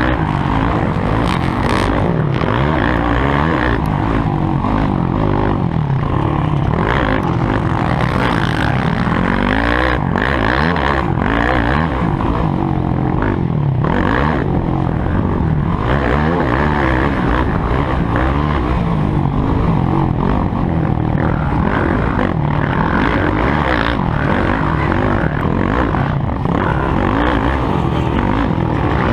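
Motocross bikes' engines running loud and continuous, revving up and down with overlapping pitch rises and falls, as from more than one bike on the track.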